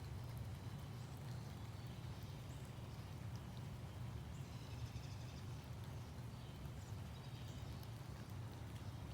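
Faint bird chirps, a few scattered calls high in pitch, over a steady low rumble of outdoor background noise.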